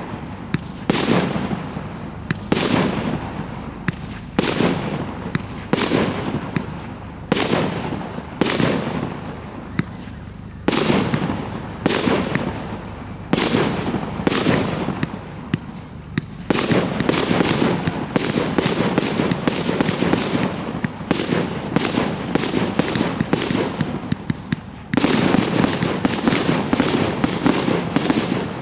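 Professional fireworks display: aerial shells bursting with sharp bangs about every second and a half, each trailing off in crackling. From about halfway the bursts come faster and overlap, and near the end a dense barrage builds and then stops abruptly.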